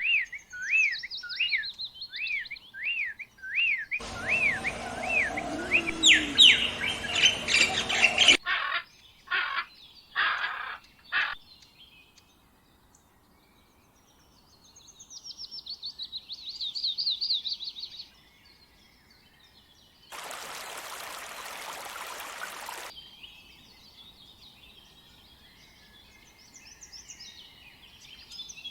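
A run of short clips of songbirds calling and singing: repeated sweeping chirps, about two a second, then a louder mix of calls, a few separate bursts, a rapid high trill, and scattered high twittering near the end. A few seconds of hiss break in about two-thirds of the way through.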